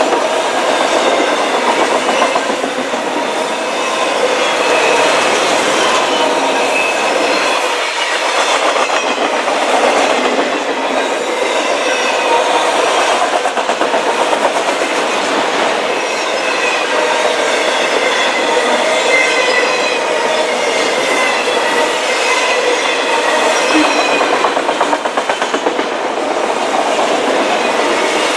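Autorack freight cars rolling past at close range: a steady noise of steel wheels on the rails with a clickety-clack rhythm and faint high-pitched wheel squeal.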